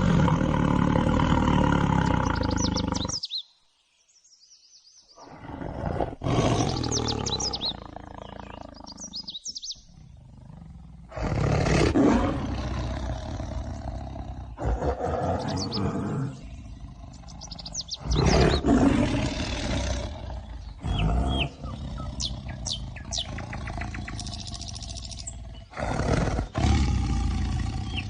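Tigers roaring in a string of short recordings that cut in and out abruptly, with a brief near-silent gap about four seconds in. Birds chirp in the background in the later part.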